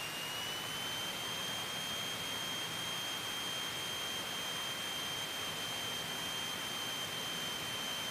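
Steady high-pitched whine over an even hiss in the cockpit intercom audio of a Scottish Aviation Bulldog light aircraft in flight; the whine steps up slightly in pitch in the first second.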